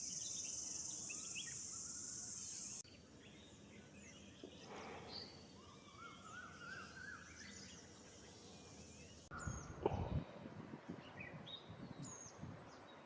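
A steady high-pitched insect trill, like a cricket, cuts off suddenly about three seconds in. Wild birds then chirp and call in a forest, including a rising, stepped series of whistled notes, with a few low thumps in the last few seconds.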